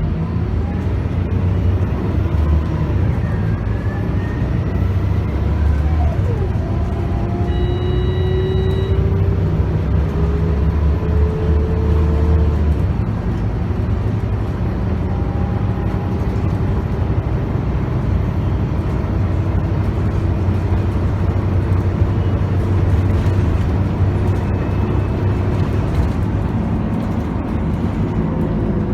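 Scania K280UB bus's 9.3-litre five-cylinder diesel driving through a ZF Ecomat automatic, heard from on board. A whine rises in pitch as the bus pulls away, then the heavy engine rumble eases off about halfway through as it lifts off the power. A brief beep sounds about eight seconds in.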